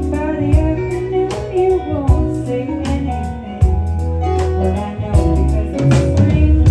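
Live band playing a song, with guitar over a strong bass line and a steady drum beat.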